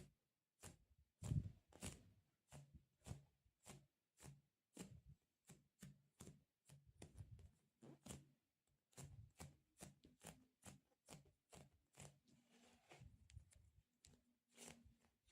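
Faint, close-miked ASMR handling sounds: a run of short, soft clicks and pops, about two a second at an uneven pace, some with a low thud beneath.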